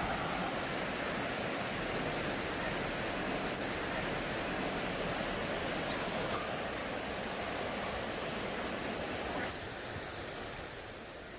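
Mountain stream water rushing over rocks, a steady even noise. Near the end the sound changes and a thin, high steady hiss comes in.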